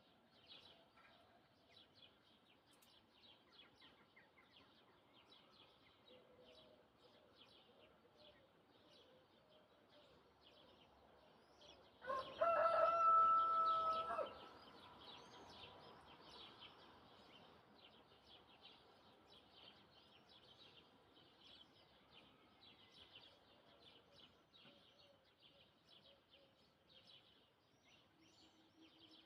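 A rooster crows once, loud and about two seconds long, about twelve seconds in, over steady chirping of small birds.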